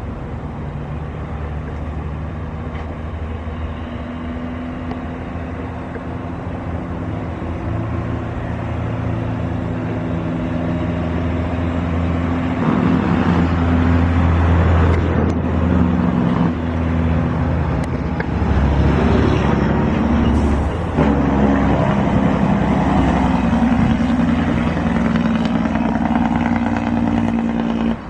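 Engine noise with several steady low hums, growing louder through the first half and staying loud, the hums shifting in pitch as it goes.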